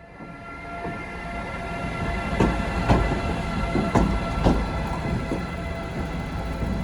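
DSB Vectron (Litra EB) electric locomotive moving through the station, with a steady whine of several tones. Its wheels clack over rail joints in two pairs of knocks about half a second apart, the train growing louder as it nears.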